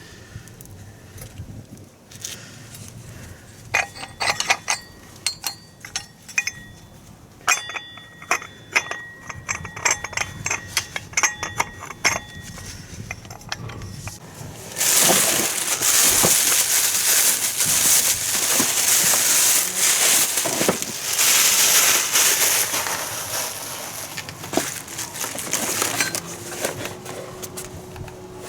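Metal tools and parts clinking and ringing against each other in quick runs of small knocks, then a long, loud steady hiss that fades off before the end.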